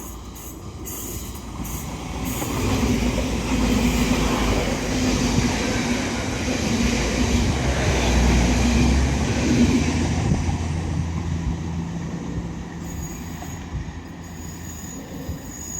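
TransPennine Express Class 802 bi-mode train passing through the station without stopping: its rumble and wheel noise build over the first few seconds, stay loud for several seconds with a steady low hum under them, then fade away.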